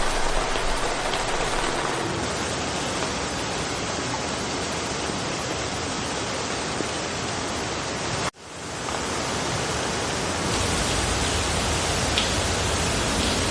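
Steady rain falling through forest foliage, an even hiss. About eight seconds in it cuts out for an instant and fades back in.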